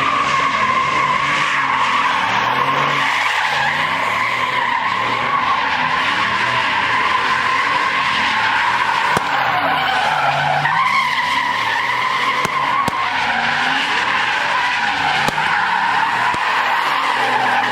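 Tyres screeching without a break as a vehicle spins its wheels under power, its engine revving down and up again every few seconds.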